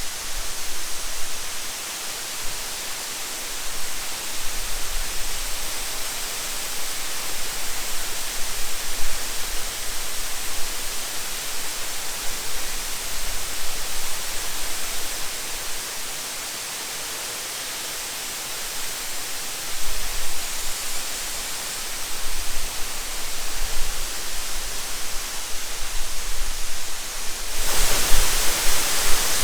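Steady rushing noise of a high waterfall's falling water, an even dense hiss that gets louder near the end.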